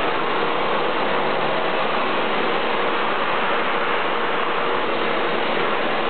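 Vacuum cleaner running steadily: an even rushing noise with a faint steady hum.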